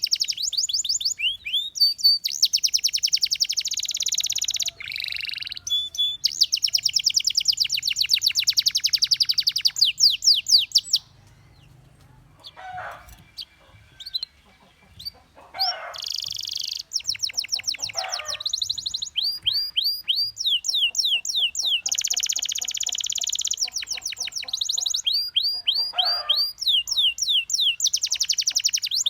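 Domestic canary singing: long, fast trills of rapidly repeated high notes. These break off for a few seconds near the middle, where only a few softer, lower calls are heard, then start again.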